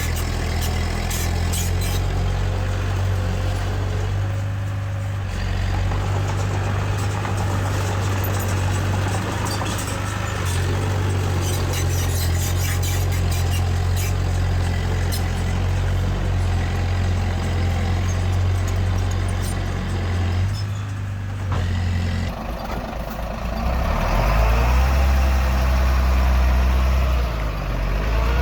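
Heavy diesel engine of earthmoving machinery running steadily, with a deep low note. About three quarters of the way through the engine note shifts and then runs louder.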